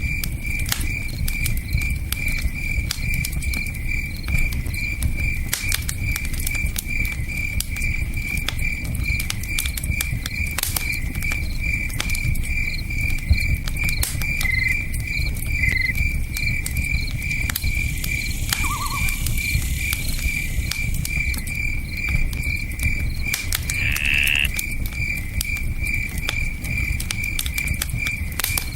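Campfire crackling, with scattered sharp pops, over the low steady rush of a river, while a cricket chirps in a fast, even pulse about three times a second. A few short separate chirps from another creature come in the second half.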